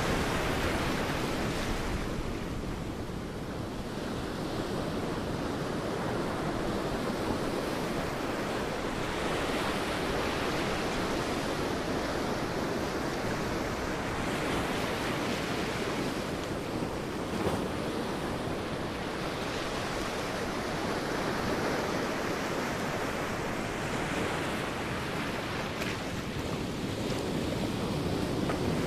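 Sea waves breaking and washing on a beach: continuous surf that eases a few seconds in and builds again near the end.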